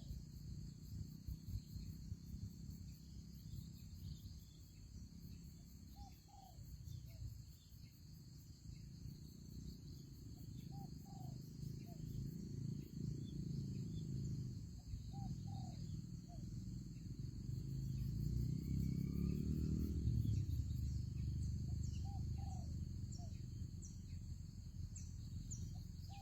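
Spotted dove cooing: a short phrase of two or three low coo notes, repeated about every four or five seconds. Behind it, a steady high insect drone and a low rumble that grows louder for a few seconds about three-quarters of the way through.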